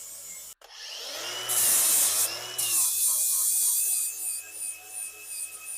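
Handheld power tool spinning up, then scrubbing hard against metal for about a second before running on with a steady high whine, cleaning up a freshly brazed joint on cast iron.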